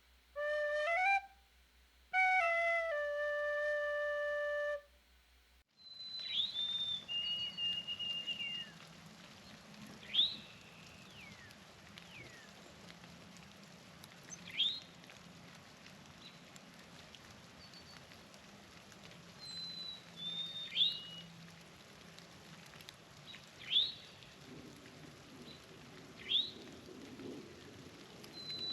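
A short jingle of rising whistled tones, then songbirds calling: sharp upward-slurred chips every few seconds, with a couple of clear held whistled notes, over a faint steady outdoor hum.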